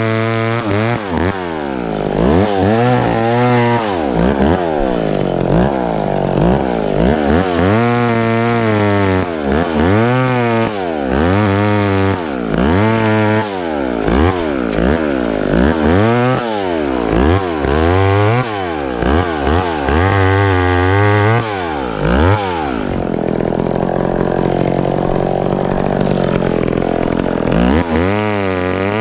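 Two-stroke chainsaw engine revved up and down again and again, its pitch rising and falling every second or two. Near the end it holds a steadier note for a few seconds, then the revving starts again.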